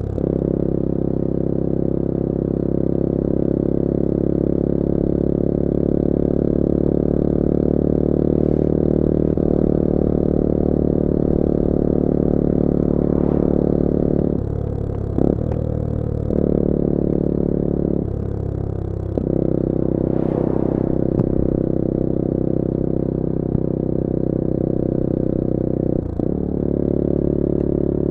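Bullit Hero 250's CF Moto 250cc four-stroke engine running steadily under way. Its note drops out briefly several times around halfway and once near the end.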